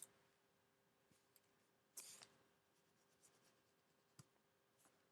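Very faint rustling and crinkling of origami paper being folded and creased, with a brief crackle about two seconds in.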